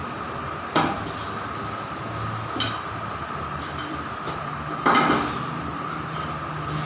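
Three sharp metallic clanks, as of metal tools or parts striking each other, over a steady mechanical hum with a constant whine.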